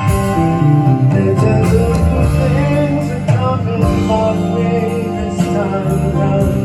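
Live band music: an instrumental passage with guitar and a moving bass line, played on stage after the last sung line of the song.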